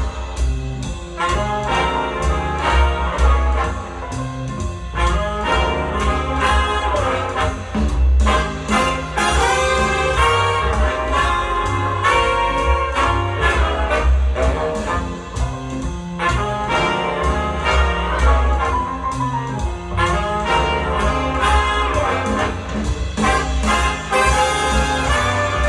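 Brass-led jazz music with trumpet and trombone, played back through a pair of small bookshelf hi-fi loudspeakers and picked up by a microphone in the room.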